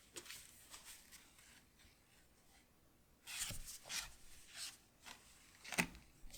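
Quiet handling of Pokémon trading cards: soft sliding and rubbing of card against card, with a sharper tap about two-thirds of the way in.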